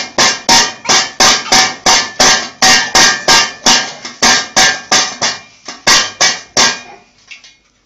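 A fast series of sharp knocks on something hard, three to four a second, each with a short ringing tone. They stop about seven seconds in.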